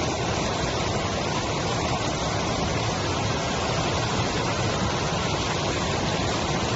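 Waterfall water rushing in a steady, unbroken noise.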